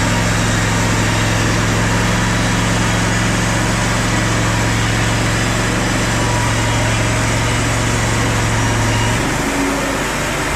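Sawmill engine running steadily with a loud low drone, which drops away about nine seconds in.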